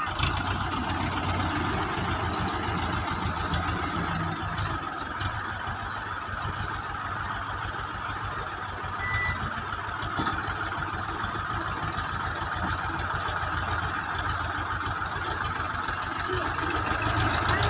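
Belarus 510 tractor's diesel engine running steadily, a low, even chugging.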